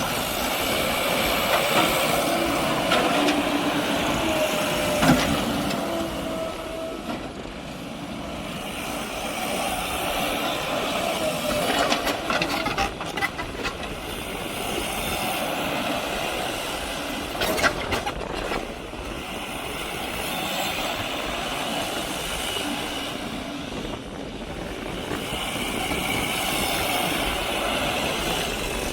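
Diesel engine of heavy machinery running, swelling and easing every several seconds, with a few sharp metallic clanks and rattles in the middle stretch.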